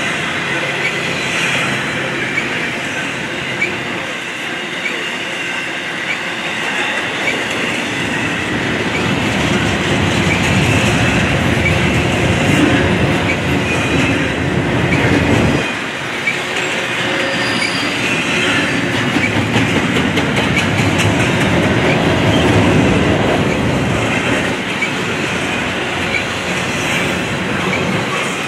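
Double-stack intermodal well cars of a freight train rolling past: a steady rumble and clatter of steel wheels over the rails, with faint short high squeaks from the wheels. The low rumble drops off suddenly about halfway through.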